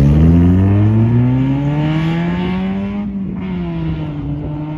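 Car engine accelerating hard as it pulls away, its pitch climbing steadily. About three seconds in it upshifts, the note drops and then holds steady as the car moves off.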